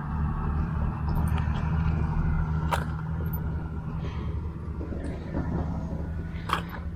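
A vehicle engine running steadily as a low rumble that fades near the end, with a couple of sharp clicks over it.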